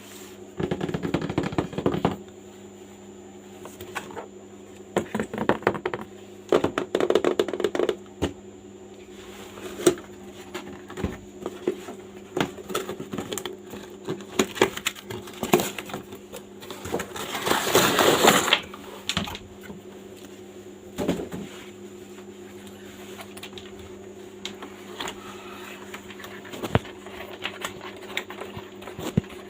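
Irregular clicking, tapping and rustling of small objects being handled, in clusters, over a steady electrical hum; a longer rustling burst comes about two thirds of the way through.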